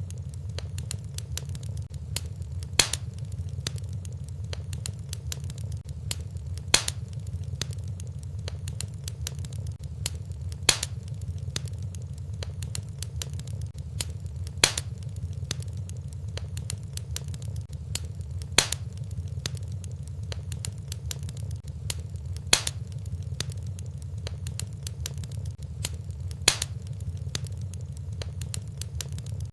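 Fireplace fire crackling, with a steady low rumble under many small crackles and a louder pop about every four seconds.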